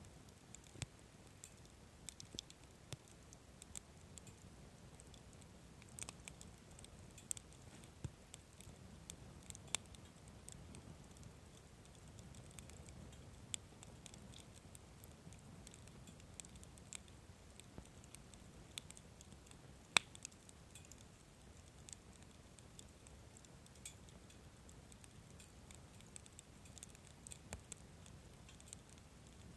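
Wood fire crackling, with scattered sharp pops and snaps at irregular intervals and one louder pop about twenty seconds in.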